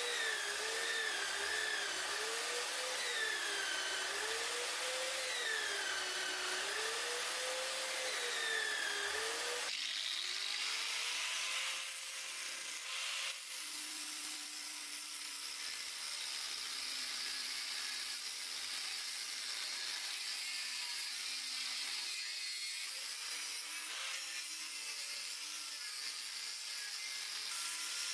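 A power tool working on the blade, its motor pitch rising and falling about once a second as it is pressed and eased off. About ten seconds in, the sound changes abruptly to a quieter, steadier tool sound.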